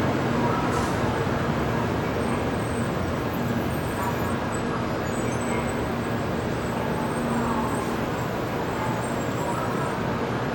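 N700A Shinkansen train rolling slowly into the platform and coming to a stop, a steady rumble and hum.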